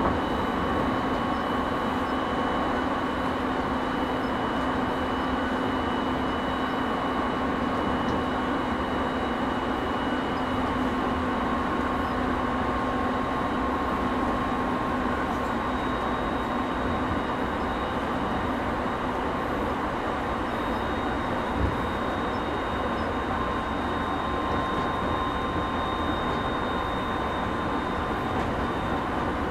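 JR East 209 series 500 commuter train running at steady speed, heard inside the passenger car: an even rumble of wheels and track under several steady tones. There is a single knock about two-thirds of the way through.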